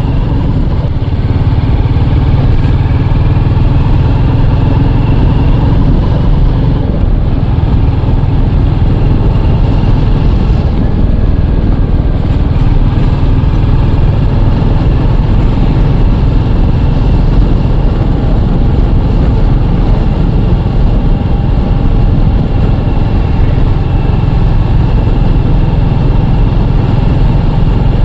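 Royal Enfield Classic single-cylinder motorcycle engine running steadily through its exhaust, a loud continuous low thump.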